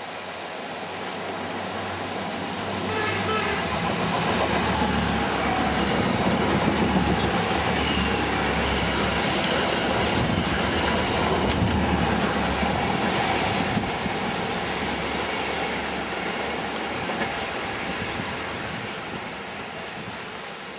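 A Network Rail multi-purpose vehicle (MPV) passing by on the rails, its diesel engine and wheels growing louder, loudest in the middle, then fading away. Its horn sounds briefly about three seconds in.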